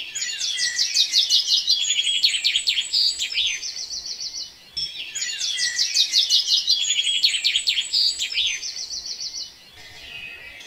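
Birdsong: a fast run of high chirps and trills, about four and a half seconds long, played twice in a row the same way, then fading to fainter chirps near the end.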